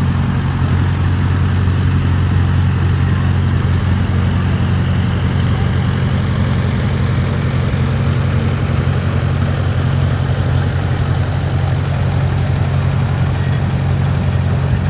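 A tractor engine running steadily at low speed, a deep even note that holds without revving up or down.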